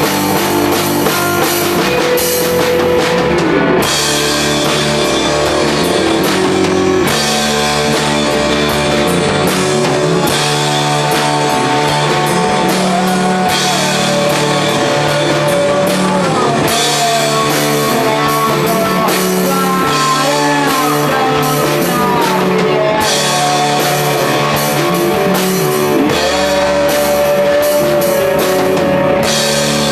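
Psychedelic rock band playing: a drum kit with cymbals under an electric lead guitar that holds and bends long notes over the band.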